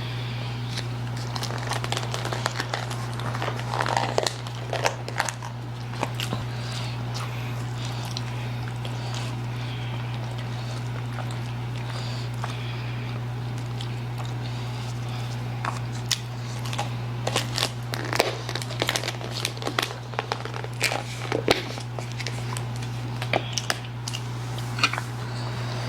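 Close-miked eating sounds: wet clicks and crackles of chewing and slurping spicy noodles, coming in irregular clusters with a lull in the middle. A steady low hum runs underneath.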